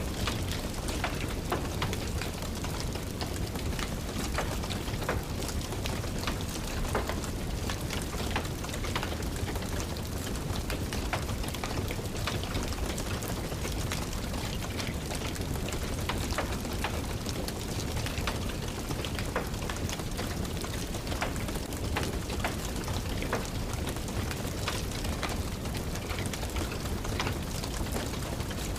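Steady rain falling, with a wood fire crackling: many sharp pops and snaps scattered over an even hiss and a low rumble.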